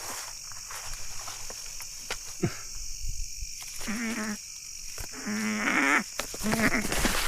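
Steady high-pitched chorus of night insects, with scattered light clicks and a few short, low pitched sounds a little past the middle and near the end.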